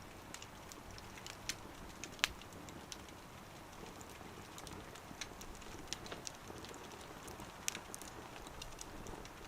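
Burning firewood in a small wood stove crackling, with irregular sharp pops and ticks. One louder pop comes a little over two seconds in and another near the end.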